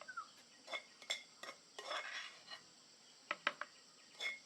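Light clinks and scrapes of utensils against cookware: a handful of sharp taps, some with a short ringing, and a brief scrape about two seconds in.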